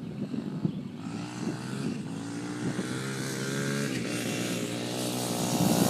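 Dirt bike engine running, with a steady engine note that comes in about a second in and grows gradually louder as the bike comes closer.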